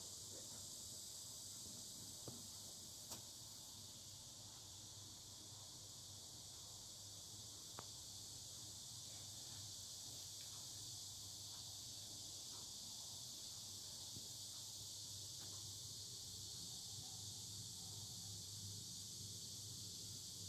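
Chorus of cicadas: a steady, high-pitched buzz that holds without a break, with a few faint clicks.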